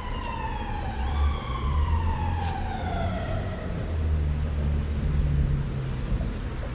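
Emergency vehicle siren wailing down in pitch twice, fading out about halfway through, over a steady hiss and a low rumble.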